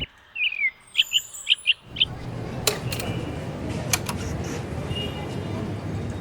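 A bird chirping: about six short, quick high chirps in the first two seconds. From about two seconds in, a steady rushing background noise takes over, with a few sharp clicks.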